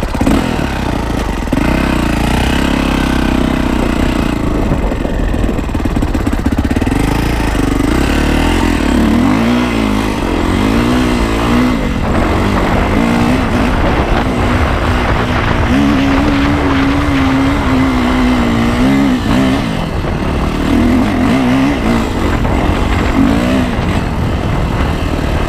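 Yamaha YZ450F's single-cylinder four-stroke engine running just after starting, its revs rising and falling again and again.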